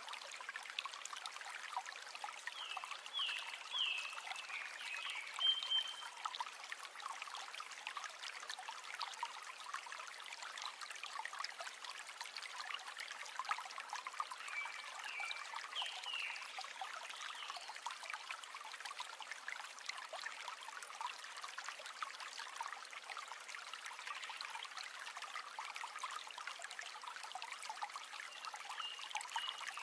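A river flowing and trickling in a steady, gentle rush. Short high chirps come through three times: early on, about midway, and near the end.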